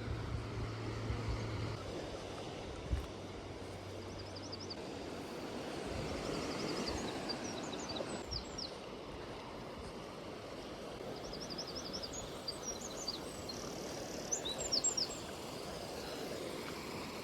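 Outdoor ambience with a steady hiss and a low hum during the first few seconds. Small songbirds sing faintly in short, high, fast phrases on and off through the middle and later part.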